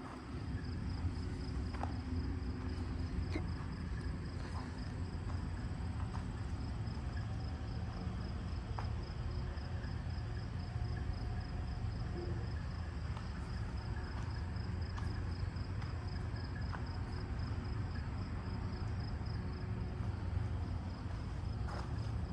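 Insects, likely crickets, chirping steadily in a fast even pulse over a constant low rumble.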